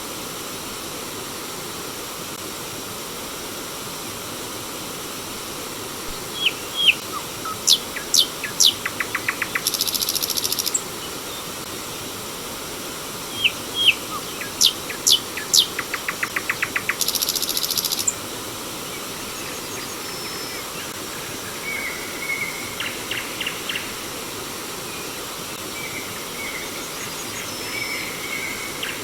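Steady rush of flowing stream water, with a songbird singing twice in the middle: each song a few sharp whistled notes, a fast trill, then a high buzzy rattle about a second long. Fainter chirps follow near the end.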